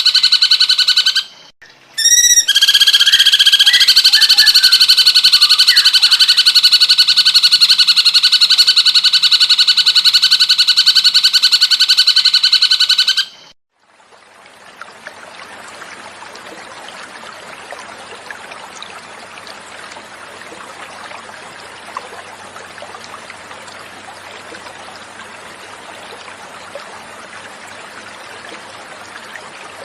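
Recorded cucak cungkok song: a loud, rapid, continuous high trill that breaks off briefly about a second in and stops about halfway through. After the song stops, a steady, quieter sound of flowing water, like a small stream.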